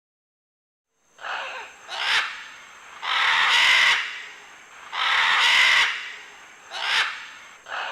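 A bird's harsh, rasping calls: two short calls, then two long ones of about a second each, then two short calls again.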